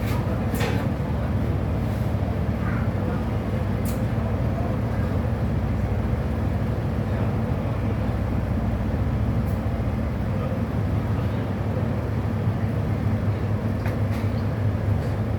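Ferry's diesel engines running with a steady low drone, with a few faint clicks over it.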